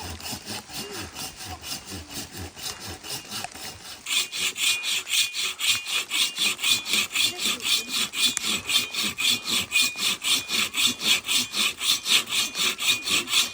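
Steady back-and-forth scraping strokes, about four a second, much louder and sharper from about four seconds in.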